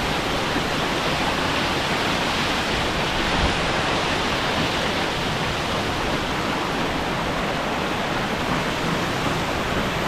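Ozone Falls waterfall rushing: a steady, unbroken wash of falling water.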